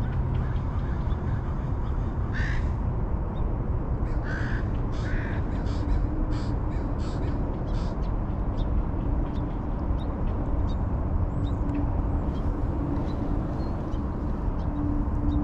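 A bird calling three times with short calls, once about two and a half seconds in and twice close together about two seconds later, over a steady low rushing noise.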